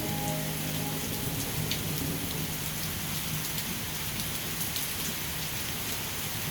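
Steady rainfall: an even hiss with scattered drop ticks.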